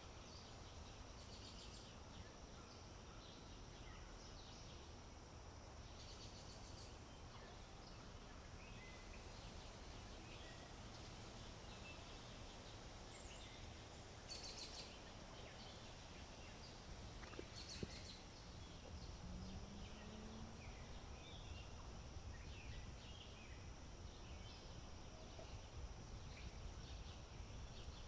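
Faint open-country ambience: a low wind rumble, a thin steady high-pitched hum, and scattered faint bird chirps.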